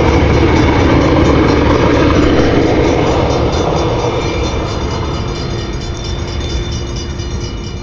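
A train passing close by, its cars rumbling along the rails, the sound slowly fading over the last few seconds as the train moves away.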